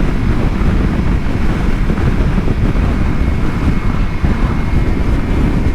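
Wind rushing over the microphone while riding, with the Kawasaki Versys-X 300's parallel-twin engine running underneath. The noise is loud and steady throughout.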